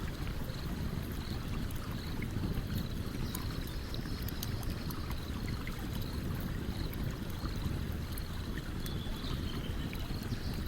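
Campfire crackling with scattered sharp pops over the steady low rush of a flowing stream.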